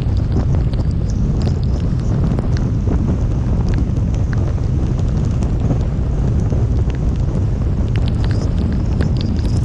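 Storm wind buffeting the microphone as a steady low rumble, with scattered sharp ticks of heavy rain striking during the drive.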